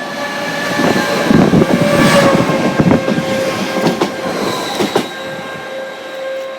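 Greater Anglia class 755 multiple unit passing close by over a level crossing, its wheels clattering over the rail joints, loudest in the middle and easing off near the end. A steady high tone sounds underneath.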